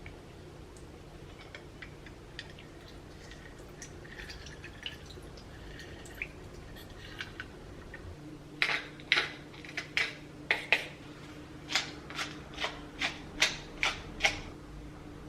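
Kitchen work: faint light clinks and ticks, then, in the second half, a run of about a dozen sharp taps, roughly two a second, over a steady low hum.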